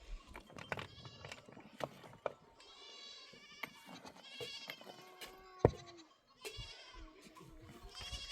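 Small livestock bleating over and over, several calls in a row and overlapping, mixed with a few sharp knocks; the loudest knock comes about five and a half seconds in.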